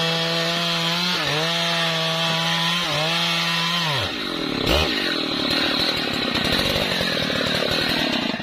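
Husqvarna 3120 XP chainsaw, a large two-stroke, cutting trembesi wood. It runs at steady high speed with two brief dips in pitch, about a second and three seconds in. From about halfway its pitch drops and wavers under heavier load, and the sound cuts off suddenly at the very end.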